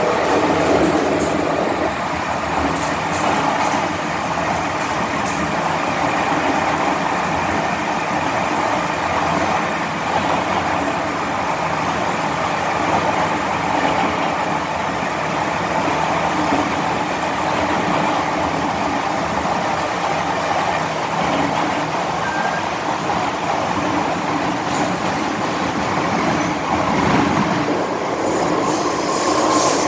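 Steady running noise inside an MTR M-Train passenger car: wheels rumbling on the rails, with a faint steady hum from the train's equipment.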